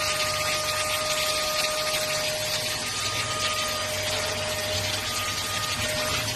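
ST6101 cordless stick vacuum cleaner running steadily: an even hiss of rushing air with a steady high motor whine.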